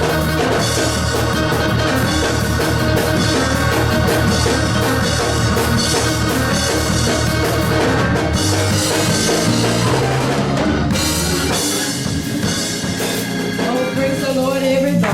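Gospel band music with a drum kit and bass playing steadily, thinning out as the drums and low bass drop away in the last few seconds.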